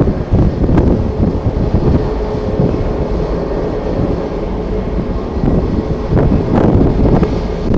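Strong gusty wind buffeting the microphone over the steady drone of a jet airliner's engines, with a faint steady whine through it.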